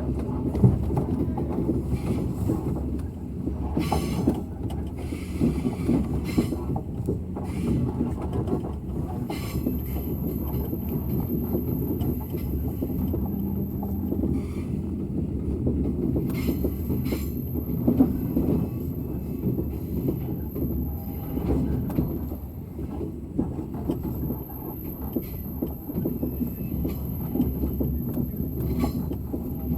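Passenger train running along the track: a steady low rumble of wheels on rail, with scattered clicks and knocks.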